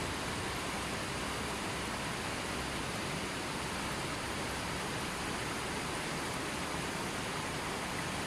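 Steady, unbroken rushing water noise, an even hiss with no separate drops, splashes or birdsong standing out.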